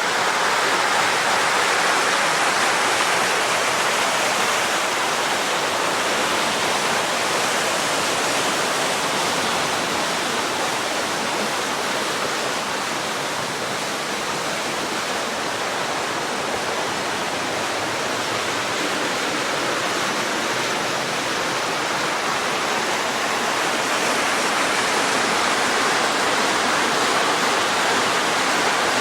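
Creek water running steadily over rocky rapids and small waterfalls, a continuous rushing, a little softer in the middle.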